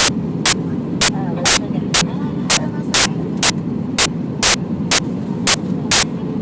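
Airbus A319 cabin noise on approach: a steady low rumble and hiss, with sharp clicks about twice a second.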